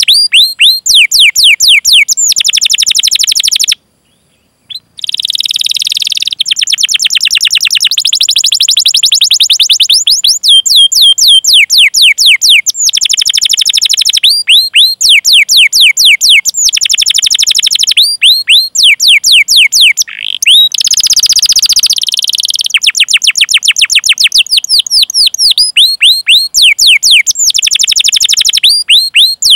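Domestic canary singing a long rolling song: rapid runs of repeated falling 'cuit cuit' chirps alternating with fast buzzy trills, loud and nearly continuous, with a brief pause about four seconds in.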